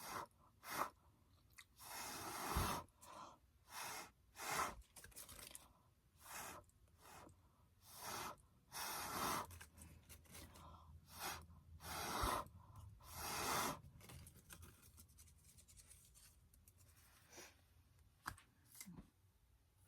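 Irregular short sputtering hisses, about a dozen, some a second or two long, of fluid acrylic paint being squirted from squeeze bottles.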